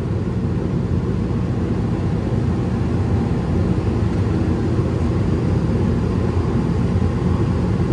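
A steady low drone of background machine noise, running evenly without change.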